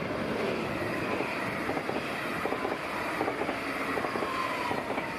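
NS VIRM double-deck electric train passing at speed: steady rolling rumble with wheels clicking over rail joints, and a faint high whine in the second half.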